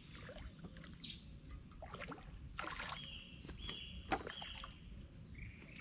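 Birds chirping in short whistled notes over a steady low rumble, with a few sharp knocks and rustles, the loudest about four seconds in.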